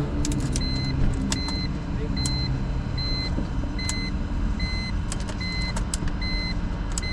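An electronic warning chime beeping evenly, about once every 0.8 seconds, over the steady low rumble of an idling engine, with a few light clicks. The key is turned in a BMW E46 that will not start, and the starter makes no crank and no click.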